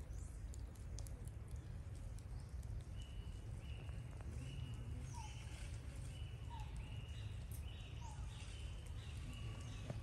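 Repeated short animal chirps and calls, a falling note about once a second with higher chirps between, over a steady low rumble.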